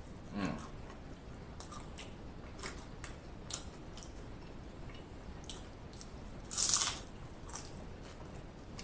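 Nacho tortilla chips being bitten and chewed: a string of short, scattered crunches, the loudest one about seven seconds in.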